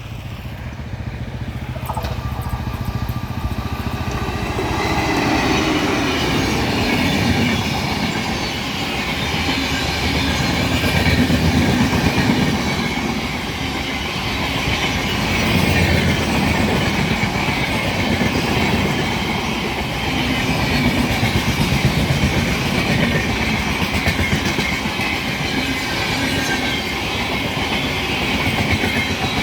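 Passenger train rolling past close by, its coaches' wheels clattering rhythmically over the rail joints. The sound builds up over the first few seconds, then keeps on as a loud, steady rumble with repeated swells.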